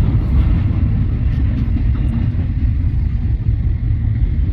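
Freight train passing, a steady low rumble with a fainter hiss above it.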